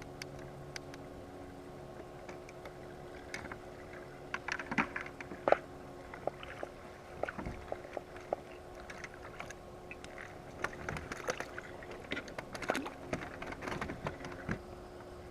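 Irregular light clicks and knocks of fishing gear being handled aboard a kayak, over a faint steady hum.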